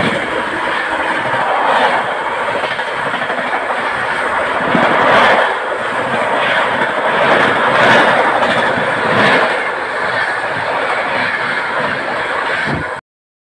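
Train running on the track, its wheels clattering over the rails. The sound cuts off abruptly near the end.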